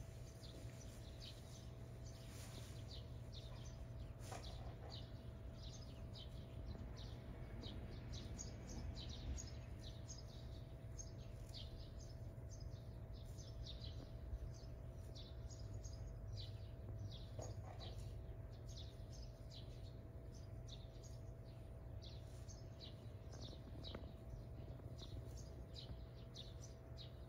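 Small birds chirping in quick, high, repeated chirps, faint over a steady low rumble of ambient outdoor noise and a faint steady hum.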